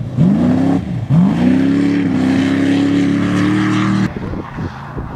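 Rally car engine revving hard on a dirt course: the revs climb, dip, then climb again and are held high and steady. The sound cuts off suddenly about four seconds in, leaving a quieter, more distant engine.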